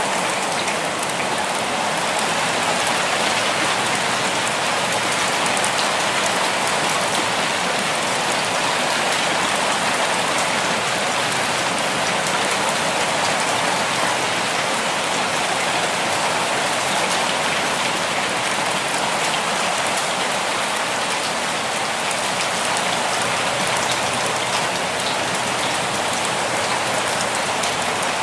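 Steady rainfall: an even hiss of rain with fine scattered drop ticks, unchanging throughout.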